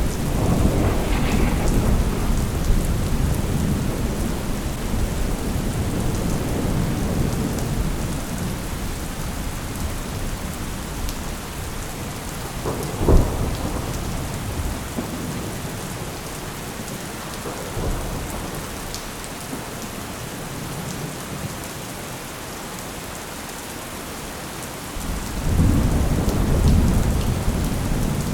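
Thunderstorm: steady rain with rolling thunder, a long low rumble fading over the first several seconds, a single sharp crack about halfway through, and a fresh heavy rumble near the end.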